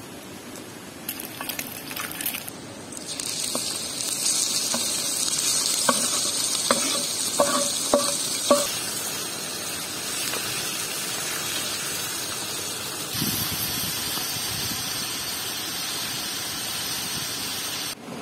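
Kidneys frying in a hot pan: a steady sizzle starts about three seconds in. Around the middle come five or six sharp taps of a metal utensil against the pan as they are stirred.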